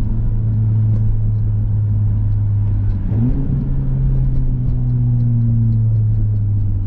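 Honda Civic Type R's turbocharged four-cylinder engine through a muffler- and resonator-deleted exhaust, downshifting. The engine note steps up in pitch with a downshift about three seconds in, then holds steady at the higher revs.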